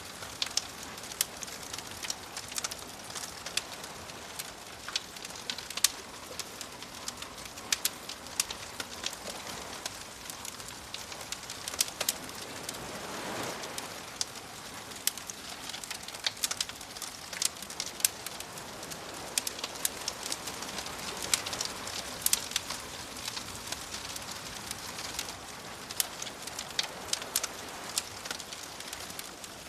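Campfire crackling, with irregular sharp pops from the burning wood over a soft steady wash of waves. The wash swells briefly about halfway through.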